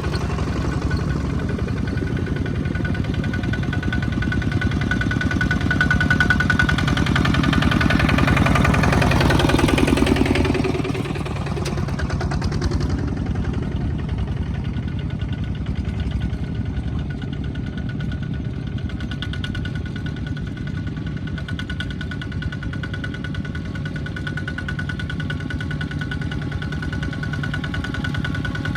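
Small tractor engine running with a fast, even knocking beat. It works harder and louder for the first ten seconds, then eases to a steady lower level.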